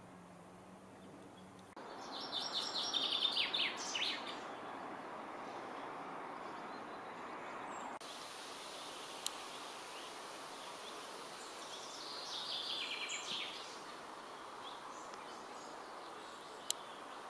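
A small songbird singing twice, a quick run of high notes falling in pitch each time, about two seconds in and again about twelve seconds in, over a steady outdoor hiss. Two sharp ticks fall in between.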